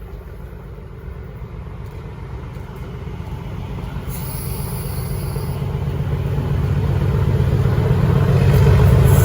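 An approaching train: a low rumble that grows steadily louder, with a brief high hiss about four seconds in.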